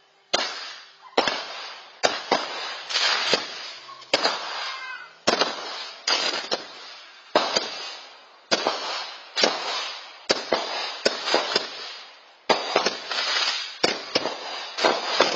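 Fireworks going off close by in a rapid series, one or two sharp bangs a second, each followed by a crackling tail, picked up by a Nest Cam security camera's microphone.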